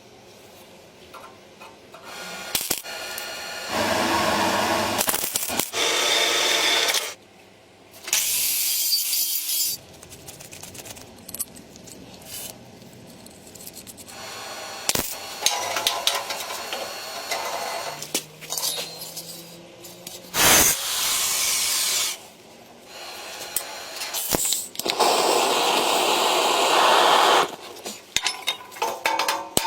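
Tool work on a craft piece: several bursts of scraping or cutting noise, each lasting a second or two, with clicks and small knocks in between.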